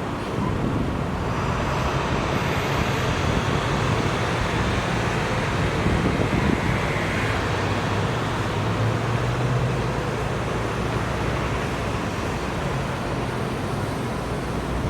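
Road traffic: motor vehicles passing, a steady rush of road noise with a low engine hum that swells and fades in the middle.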